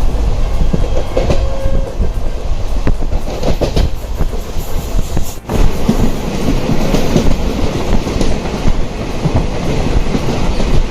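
Moving train running on the rails, its wheels clacking over the rail joints over a loud, steady rumble. The sound dips briefly about five and a half seconds in.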